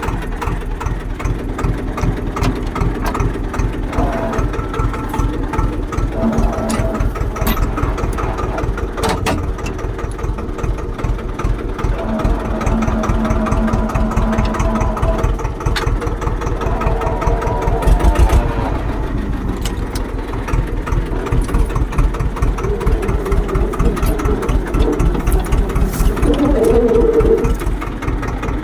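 Diesel tractor engine running with a steady, rapid chug.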